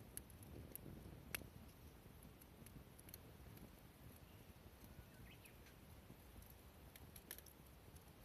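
Near silence: a low outdoor rumble with a few faint, scattered clicks, one sharper about a second and a half in and a small cluster near the end.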